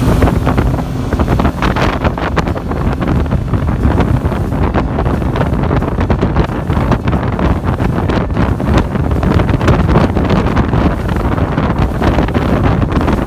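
Loud wind buffeting the microphone on a speedboat underway, over the boat's engine and water rushing past the hull.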